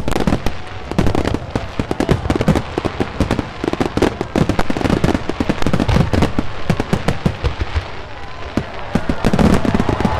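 Fireworks exploding in a rapid, continuous barrage of bangs and crackles, many bursts a second.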